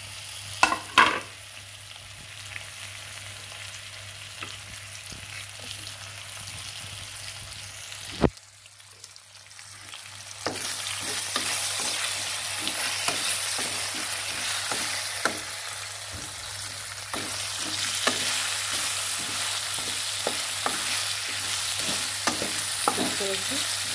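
Potato slices frying in oil in a metal kadai, sizzling, while a wooden spatula stirs and scrapes them against the pan. One sharp click about a third of the way through, after which the sizzle dips briefly and then comes back louder with frequent scraping strokes.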